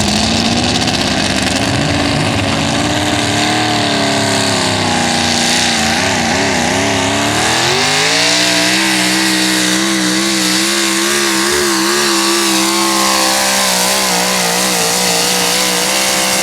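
4x4 pickup truck engine at full throttle pulling a weight-transfer sled. The revs climb, waver up and down for a moment around the middle, rise again and hold high, then drop off sharply right at the end as the throttle comes off.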